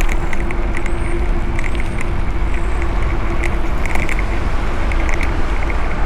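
Wind rushing and buffeting over an Insta360 X5's built-in microphone on a moving mountain bike, a steady low rumble with road noise, a faint hum in the first half and scattered small ticks. Two short high chirps, about one and two seconds in.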